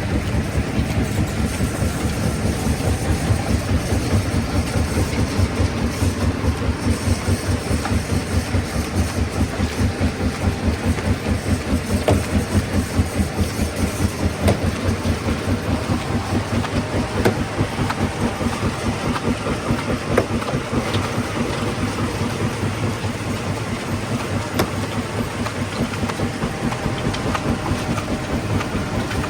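Stone-crushing plant machinery running with a fast, steady low pulsing, with a few sharp knocks of stone here and there.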